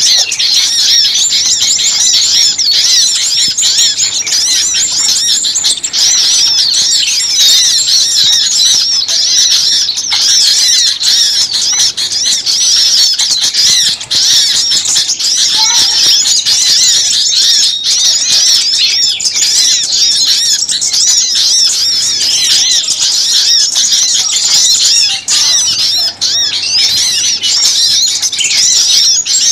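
A dense, noisy chorus of many small songbirds chattering and calling at once, high-pitched rapid chirps overlapping without pause. It is a lure recording of agitated small birds, the kind played to draw small birds in.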